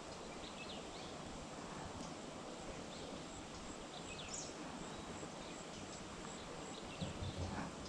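Outdoor ambience: a steady background hiss with faint, scattered short bird chirps, about a dozen over several seconds, and a brief low sound near the end.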